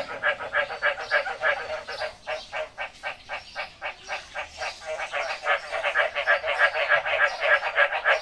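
Frogs calling: a steady run of rapid croaking pulses, about four or five a second, overlapping and getting louder and denser near the end.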